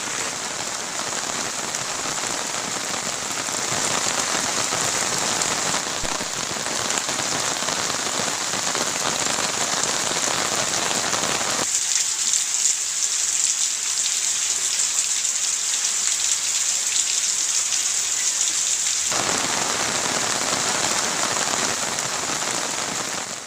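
Steady rain falling and pattering on surfaces, a dense even hiss. About halfway through, the lower part of the sound thins out for several seconds, then returns.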